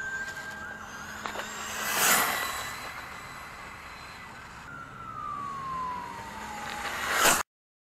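Brushless Traxxas Stampede VXL RC truck running, its motor whining with tyre and gravel noise swelling as it passes. About five seconds in the whine falls steadily as the truck slows, and the sound cuts off suddenly near the end.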